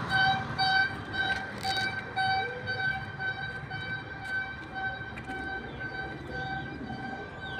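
A run of even, high-pitched electronic beeps, about two a second, over a low background rumble.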